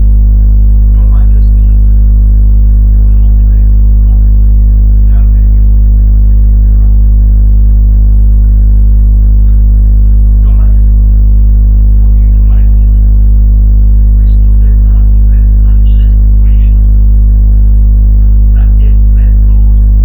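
A loud, steady low hum that does not change, with faint scattered sounds above it.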